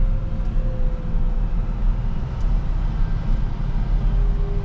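Rubber-tire wheel loader's diesel engine running steadily, a deep even rumble.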